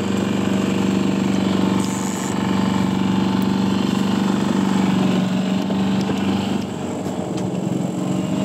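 Small boat's outboard motor running steadily at trolling speed, a constant engine hum.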